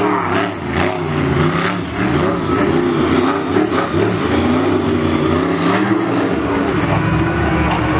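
Monster truck engine revving repeatedly, its pitch rising and falling over and over, then running at a steadier pitch near the end.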